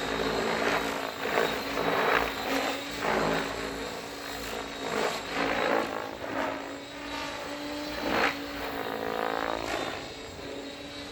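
Electric Mikado Logo 700 RC helicopter flying, its motor and rotor giving a steady whine under repeated whooshing swells of blade swish, about one or two a second, as the rotor disc is flipped back and forth.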